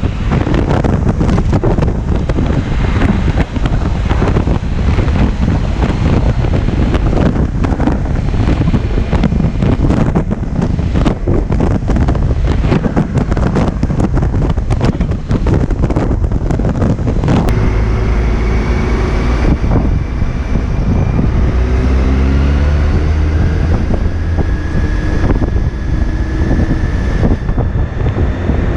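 Heavy wind buffeting on the microphone of a BMW K1600 GLT motorcycle at speed for about the first seventeen seconds. Then the wind noise drops away and the bike's inline-six engine comes through, its revs rising.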